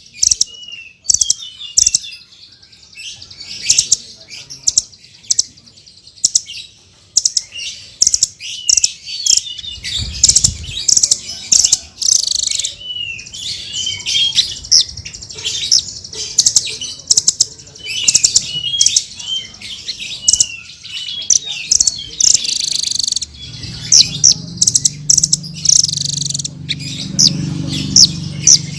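Blue-crowned hanging parrot (srindit) calling in a rapid run of sharp, high-pitched chirps mixed with short down-slurred whistled notes.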